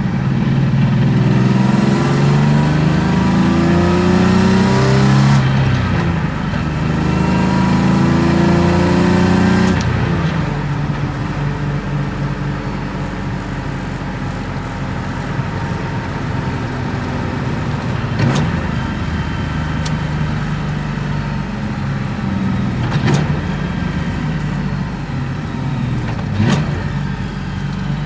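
BMW M50B25 2.5-litre straight-six, on aftermarket headers and exhaust, pulling hard with its pitch rising, dropping sharply at an upshift about five seconds in and rising again until the driver lifts near ten seconds. It then runs steadily at part throttle, with a few sharp clicks later on.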